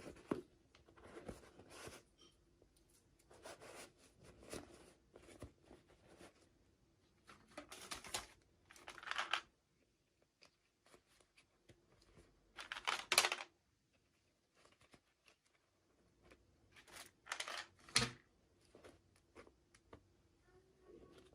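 Toy packaging being handled and torn open by hand: intermittent rustling and tearing in short bursts, the loudest about nine, thirteen and eighteen seconds in.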